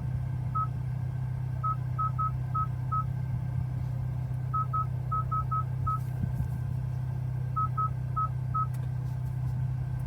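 Short electronic touchscreen confirmation beeps from the Hyundai i20 N's infotainment screen, all at one pitch, about sixteen in irregular groups of two to six as menu items are tapped, over a steady low cabin hum.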